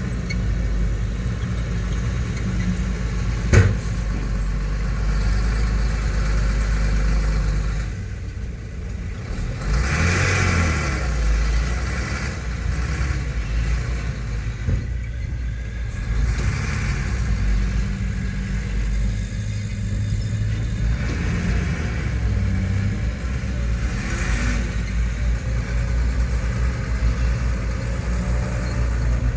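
Heavy diesel earthmoving machinery running steadily, its engine easing off and then picking up again about ten seconds in. A single sharp knock is heard about three and a half seconds in.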